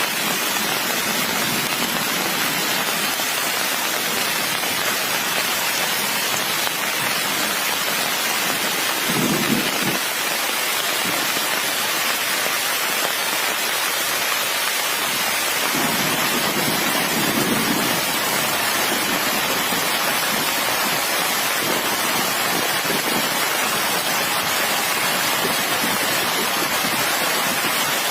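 Heavy rain falling steadily, with two low rumbles of thunder, one about a third of the way in and a longer one a little past the middle.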